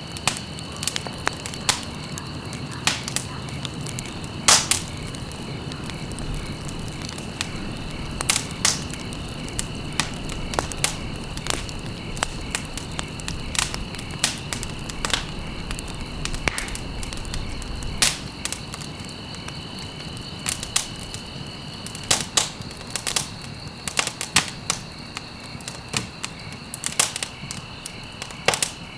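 Wood fire burning in a fireplace: irregular sharp crackles and pops over a steady low rush of flames, with a faint steady high tone underneath.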